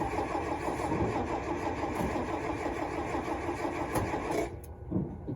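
Truck engine running on wood gas, labouring with a fast, rough rhythm, then cutting out abruptly near the end: the engine stalls. A single thump follows the cut-off.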